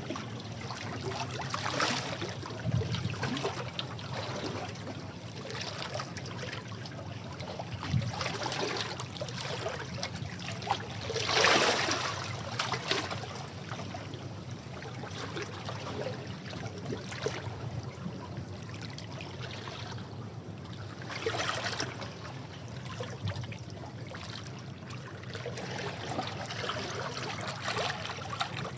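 Sea waves washing against rocks: a steady splashing wash, with surges as waves break, the biggest about eleven seconds in and another just past twenty seconds.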